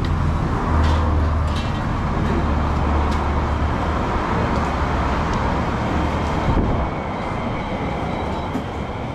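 Steady low engine rumble of a nearby motor vehicle over a wash of street traffic noise, with a few light knocks; the rumble fades out about two-thirds of the way through.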